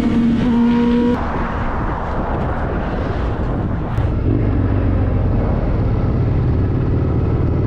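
Motorcycle riding at speed, its engine and road and wind noise making a steady rumble. A steady pitched tone sounds for about the first second, then cuts off.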